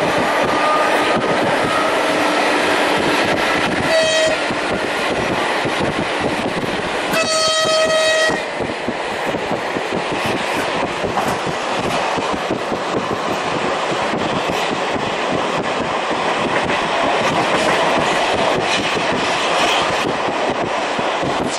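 Running noise of a passenger train on the move, heard from aboard, with wheels on the rails and a rising whine in the first couple of seconds. A train horn sounds twice: a short blast about four seconds in and a longer, roughly one-second blast around seven seconds.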